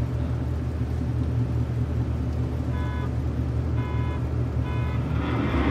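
Steady low engine rumble of idling vehicles, broken by three short pitched beeps about a second apart around the middle. Near the end an engine revs up and grows louder.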